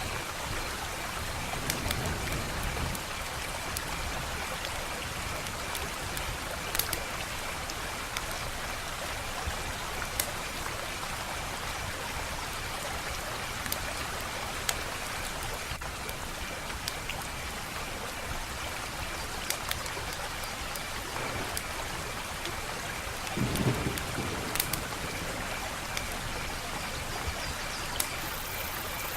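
Wood fire crackling: a steady hiss scattered with sharp pops, and a brief low rumble about three-quarters of the way through.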